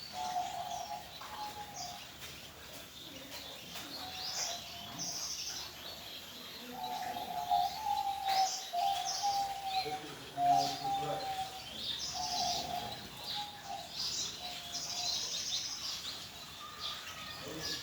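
Birds calling throughout: runs of short, level whistled notes, with many quick high chirps and trills over them.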